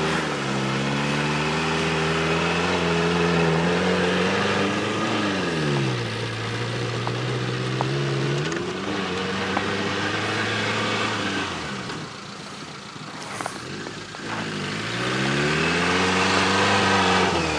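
Suzuki Samurai jeep engine revving and easing off as it drives across snow. The engine note climbs, drops about five seconds in and holds. It fades to a quieter stretch near the twelve-second mark, then climbs again in a long rev and falls away near the end.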